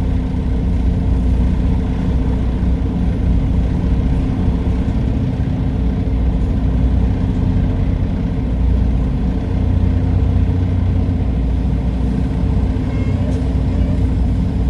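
Semi truck's diesel engine running steadily at low speed, heard from inside the cab.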